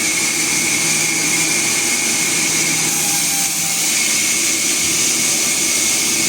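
Sawmill machinery running steadily: a continuous loud hiss with a high whine over a low hum, unchanging throughout.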